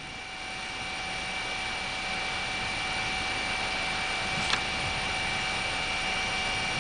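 Helicopter cabin noise: a steady drone of engine and rotor with several steady whining tones, growing a little louder over the first couple of seconds. One brief click about four and a half seconds in.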